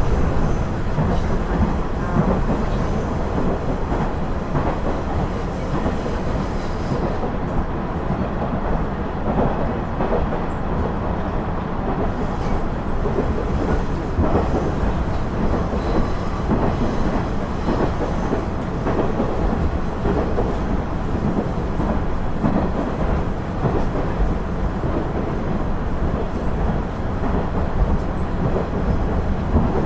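Running sound of a KiHa 112 diesel railcar (KiHa 110 series) heard from inside the car as it travels along the line: a steady rumble of the diesel engine and the wheels on the rails, with faint clacks running through it.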